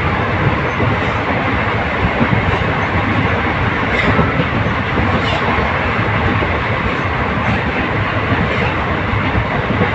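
Janshatabdi Express passenger train running at speed, heard from a coach window: a steady loud rush of wheels on rails and passing air, with a few faint rail clicks.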